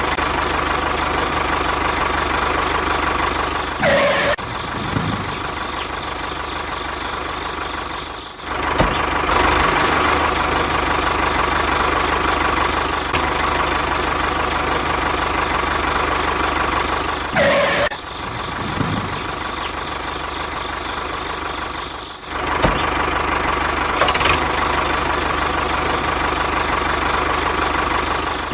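Motor of a homemade mini bulldozer running steadily, with brief dips about 8 and 22 seconds in.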